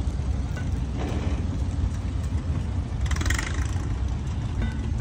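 Old tractor engine idling steadily, a low rumble.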